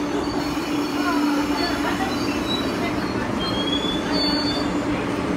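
MTR East Rail Line electric train alongside the platform, with a steady low hum and faint high squeals from the wheels or running gear near the middle.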